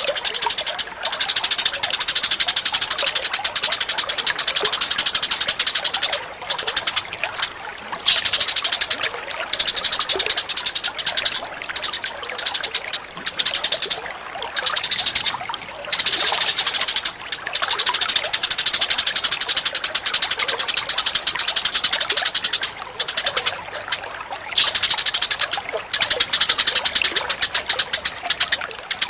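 Birds calling in long runs of rapid, high-pitched chattering trills, broken several times by short pauses.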